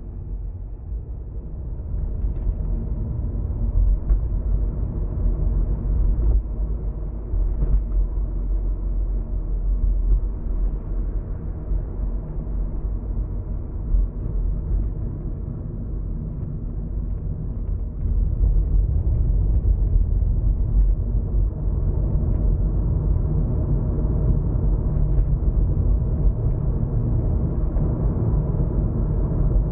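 Car driving, heard from inside the cabin: a steady low rumble of road and engine noise that grows a little louder about eighteen seconds in.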